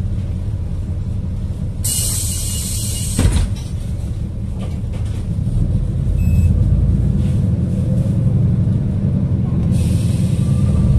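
Ride inside a city bus: the engine and road rumble steadily and grow louder about halfway through as the bus picks up speed. Two short hisses of compressed air, one about two seconds in and one near the end, from the bus's air brakes or pneumatics.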